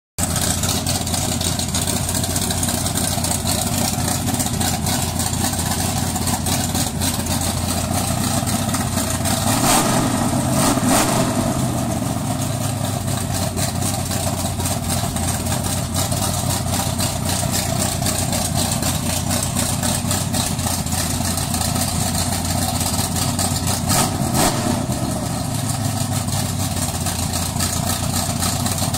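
Chevrolet 402 cubic-inch big-block V8 running at a steady idle, revved up briefly twice, once about ten seconds in and again, more shortly, about two-thirds of the way through.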